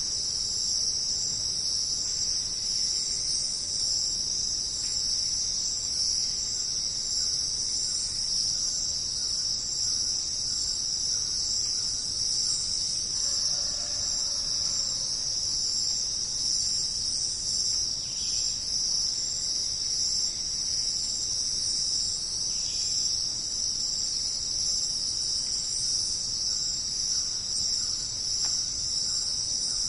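Dense, steady insect chorus, cricket-like, with a continuous high-pitched trill. Faint short calls from another animal are heard about halfway through.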